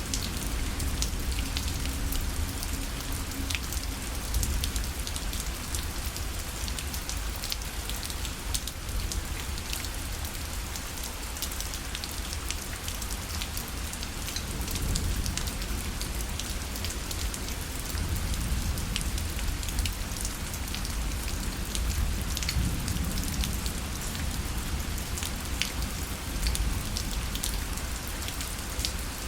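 Steady rain pattering on a parasol canopy, with many individual drops ticking sharply against it over a low steady rumble.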